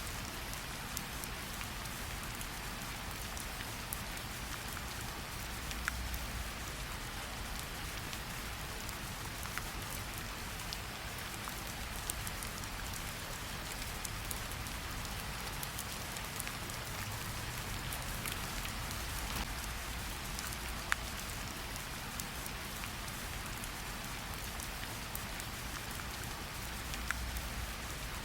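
Steady light rain pattering on tree leaves, with individual drops falling off the leaves as sharp ticks here and there.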